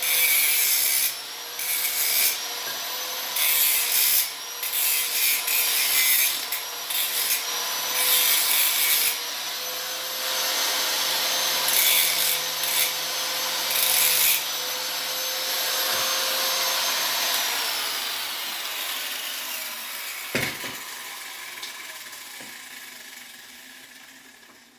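Electric grinder running, its disc biting into steel frame metal in repeated loud bursts of hiss over a steady motor whine. Near the end the grinder is switched off and winds down, its pitch falling as it fades away.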